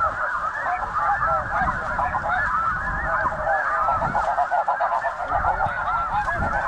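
A huge flock of snow geese calling overhead: a dense, unbroken chorus of many overlapping high honks, with a low rumble underneath.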